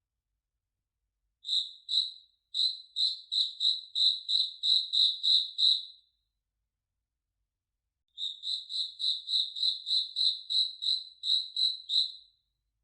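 A cricket chirping in a steady run of short high chirps, about three a second. It pauses for about two seconds in the middle, then starts again.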